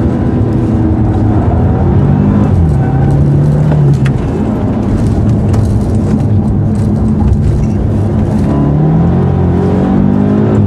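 BMW Alpina B6 Gran Coupe's twin-turbo V8 working hard on a racetrack lap, heard from inside the car. The engine note drops about two and a half seconds in, then climbs steadily under full throttle over the last few seconds before falling sharply at an upshift at the very end.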